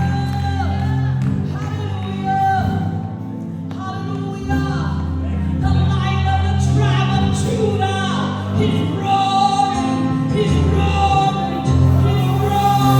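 Live gospel worship music: a band with steady bass notes under singers' voices.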